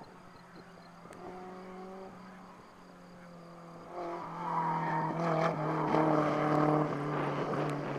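Alpine A310's four-cylinder engine running under load as the car drives past on the circuit: faint at first, then much louder from about four seconds in as it comes close, with its pitch shifting in steps.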